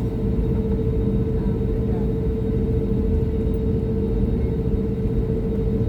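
Airbus A320 cabin noise: the jet engines' steady drone, a low rumble with a strong, even hum.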